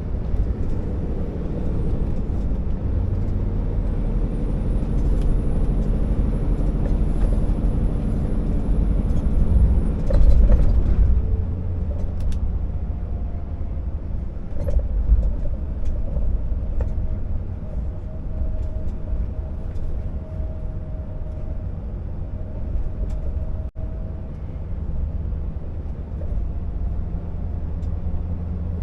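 Scania R650 timber truck's V8 diesel engine running under way, a steady low drone with road noise. About ten seconds in there is a brief louder rush, after which the engine note settles lower.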